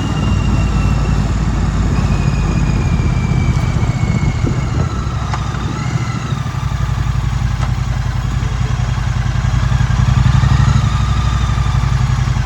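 2016 Triumph Street Twin's 900 cc parallel-twin engine running steadily while riding, getting a little louder about ten seconds in.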